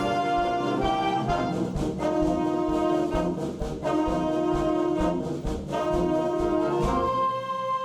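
School band playing, led by brass (trombones and trumpets), over a steady beat of percussion strikes. About seven seconds in, the full band cuts off, leaving a single sustained held tone.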